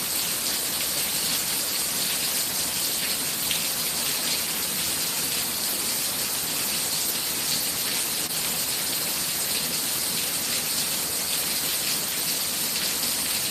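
Torrential thunderstorm rain pouring down, a steady, even hiss that holds at one level throughout.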